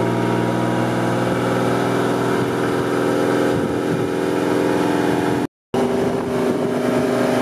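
Pontiac G8 GT's 6.0-litre V8 running steadily on the dyno rollers. The sound drops out for a moment about five and a half seconds in, and after that the engine note sits slightly higher.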